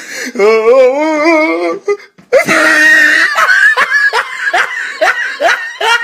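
Hysterical laughter from the 'Look at this dude' meme. A high, shaking, wavering laugh is followed about two seconds in, after a brief break, by loud, breathy, repeated bursts of laughing.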